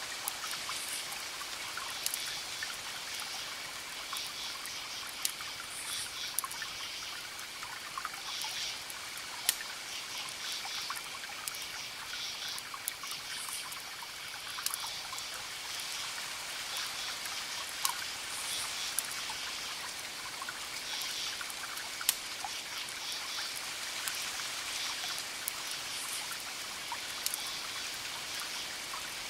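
Wood fire crackling, with sharp pops scattered every second or so, over a steady hiss like trickling water or light rain and a faint steady high tone.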